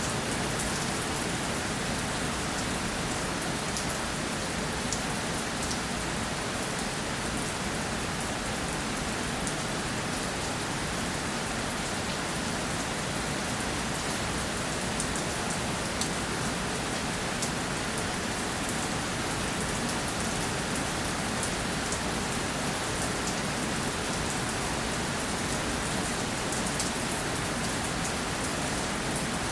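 Steady rainfall pattering on a surface, with many small drop ticks over an even hiss.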